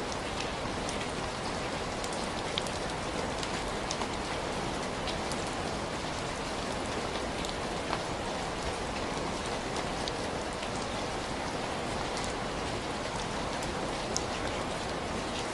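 Steady rain falling, with scattered sharp ticks of drops or crackles here and there.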